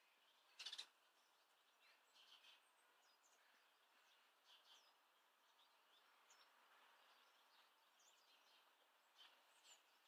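Faint garden ambience: small birds giving short, high chirps scattered throughout over a quiet background hiss. A brief, louder noise cuts in a little under a second in.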